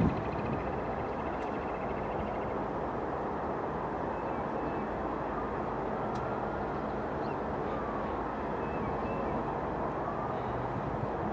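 ALCO C-424 diesel locomotive's engine running steadily at a low, even throttle.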